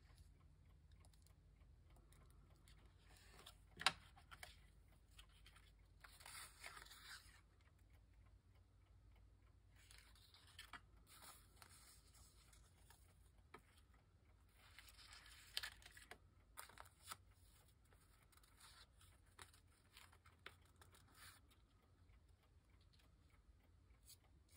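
Faint paper handling: a few short patches of paper rustling and sliding, with scattered light taps and clicks and one sharper tap about four seconds in.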